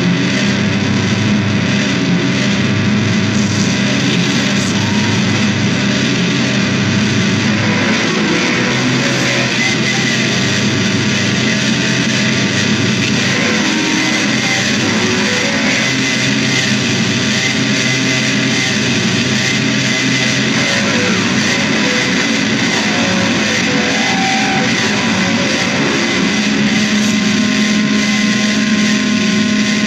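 Loud distorted electric guitar music: dense, droning sustained notes, with the low note changing every few seconds.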